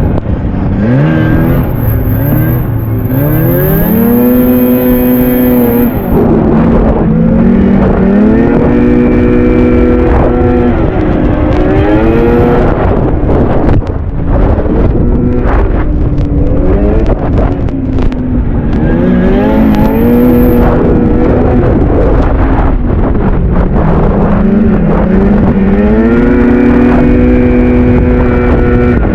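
Vintage two-stroke snowmobile engine running under changing throttle. The pitch climbs, holds, then falls back several times as the sled speeds up and eases off, over a steady rush of track and wind noise.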